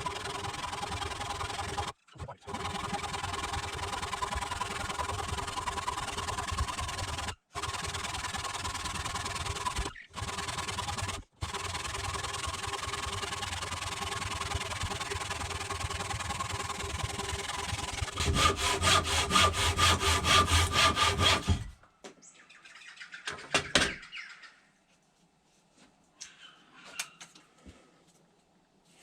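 Chainsaw running and cutting wood, with a rapid rhythmic chatter near the end. The saw stops about three-quarters of the way through, and only faint knocks and handling sounds follow.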